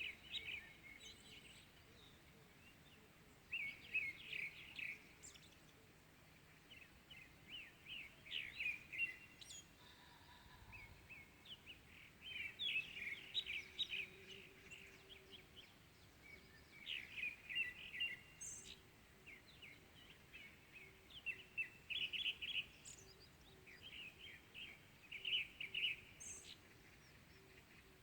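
Small songbirds singing: short bursts of rapid, high chirps about every four seconds, over faint steady outdoor background noise.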